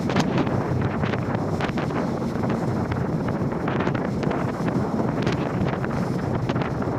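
Strong wind buffeting the microphone over the rush of rough sea around a boat, with frequent short, sharp splashes of waves against it.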